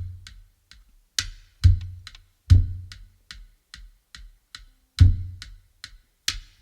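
Drum rhythm of a music track with no other instruments: deep, booming drum strikes about every half second to second, with lighter taps in between.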